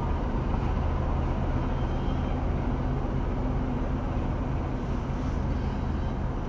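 Freight train rolling through the level crossing, a steady low rumble heard from inside a car waiting at the crossing.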